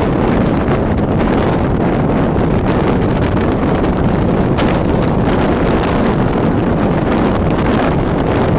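Loud, steady wind buffeting the microphone over the running noise of a moving passenger train.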